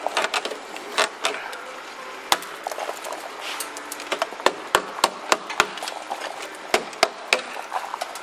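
Sharp knocks and taps of tool work at an irregular pace, a dozen or more strikes, the loudest about a second in, near two and a half seconds, and between five and seven seconds.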